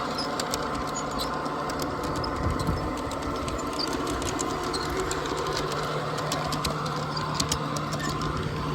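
A machine running steadily: a constant low hum with a faint higher tone and a fast, fine clicking over it.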